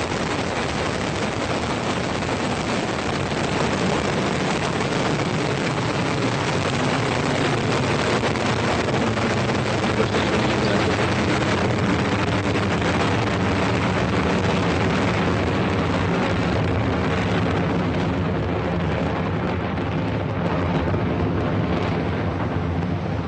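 Falcon 9 rocket's nine Merlin first-stage engines firing during ascent just after liftoff: a loud, steady, dense rumble. Its higher hiss thins out during the last third.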